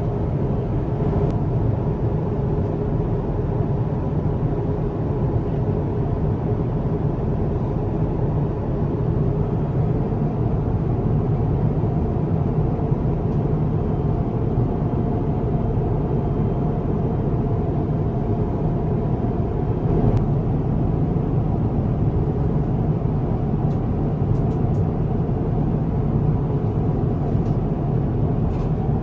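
Steady cabin noise inside a Cathay Pacific Airbus A350-1000: an even rumble and rush of engines and airflow, with a few faint clicks near the end.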